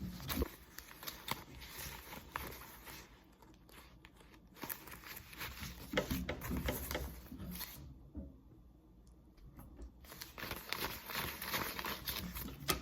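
Paper banknotes rustling and crinkling, counted by hand, with a pause of about two seconds near the two-thirds mark.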